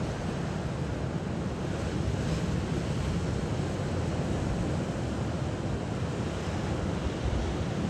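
Moving water making a steady, even rushing noise, heaviest in the low end, with no single splash or wave standing out.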